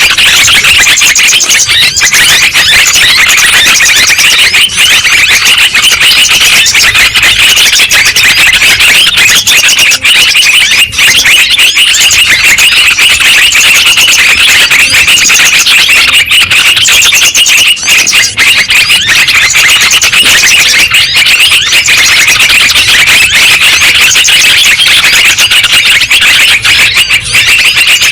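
Yellow-vented bulbul (trucukan) lure recording: many overlapping quick chattering calls, dense and unbroken, played very loud.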